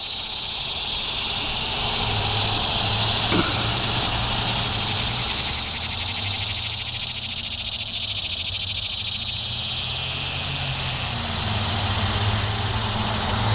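Annual cicadas calling in a steady, high-pitched buzz with a fast pulse in it: males' mating call to females. A low steady hum of road traffic runs underneath.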